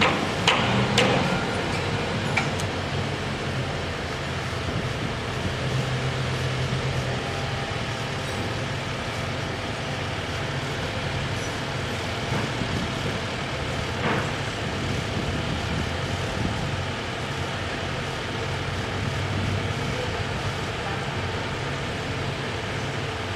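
Steady running of heavy motor vehicles and road traffic, with a low engine hum, a few sharp knocks in the first couple of seconds and another knock about halfway through.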